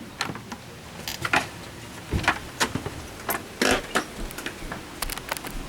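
Scattered sharp clicks and knocks, about a dozen at irregular intervals, over a low steady background hiss.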